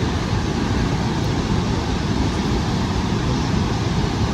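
Steady roar of Niagara Falls: a dense, deep rush of falling water that holds even throughout.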